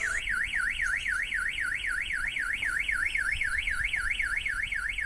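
Van alarm siren sounding a fast warbling wail, about six up-and-down sweeps a second. The StarLine alarm has been triggered by someone entering the remote-started vehicle without the authorisation tag.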